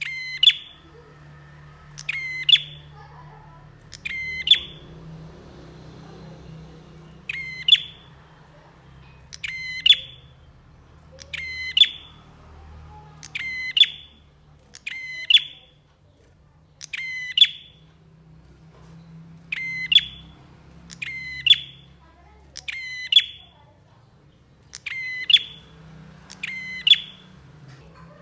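Prinia (prenjak) calling: one short call repeated about every one and a half to two seconds, over a faint low hum.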